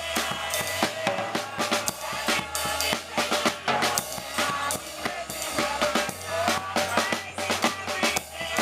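Gospel band music led by a drum kit playing a busy, steady beat of snare and bass drum, over a bass line that moves every second or two and melodic parts above.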